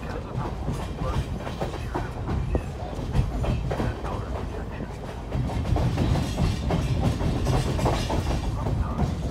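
California Western passenger train rolling along the track: a steady low rumble with irregular clicks and knocks from the wheels and cars, growing louder about five and a half seconds in.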